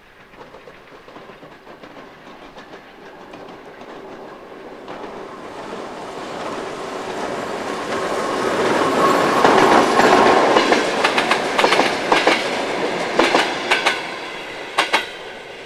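M62 diesel locomotive and its passenger coaches approaching and passing, growing steadily louder to a peak about ten seconds in. Over the last few seconds the coach wheels click sharply over the rail joints as the train rolls by.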